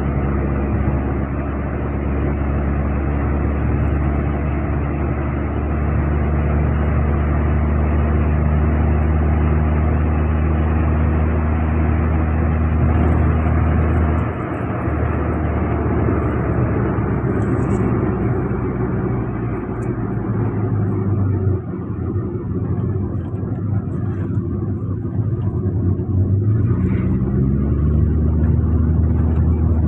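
Kia Picanto's engine running steadily. Its note drops and changes about halfway through, and rises again near the end.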